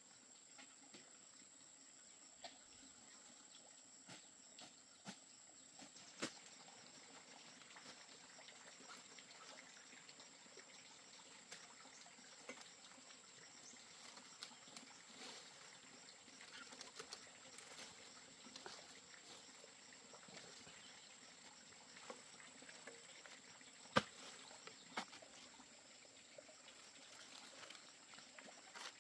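Near silence: faint outdoor ambience with a steady thin high-pitched tone and scattered light clicks and rustles, one sharper click about 24 seconds in.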